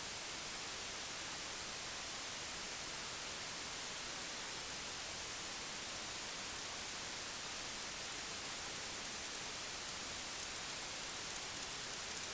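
Steady, even hiss like static, with no motor tone, rhythm or voices in it.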